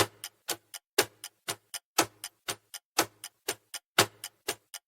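Countdown-timer sound effect of a clock ticking: sharp ticks about four a second, with a stronger tick on each second.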